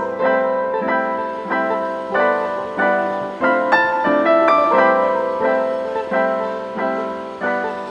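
Background music: a piano playing a flowing pattern of notes, each struck and decaying.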